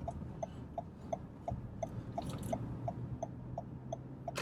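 Car turn-signal indicator ticking evenly, about three ticks a second, over the low steady hum of the car's cabin.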